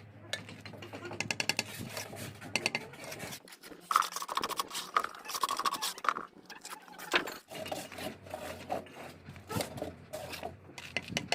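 Bricklaying work: a run of short scrapes and taps as a trowel spreads mortar and knocks bricks into place.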